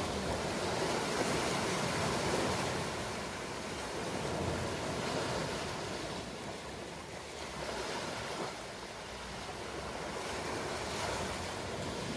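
Ocean surf: a steady rushing wash of waves that swells and eases, loudest in the first few seconds and dipping about two-thirds of the way through.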